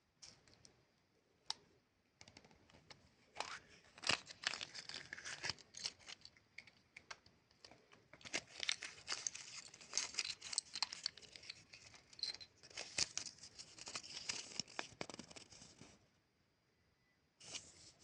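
Chupa Chups lollipop's plastic wrapper being crinkled and torn open, making dense crackling and rustling. It is sparse at first, busiest from about eight seconds in, and pauses shortly before the end.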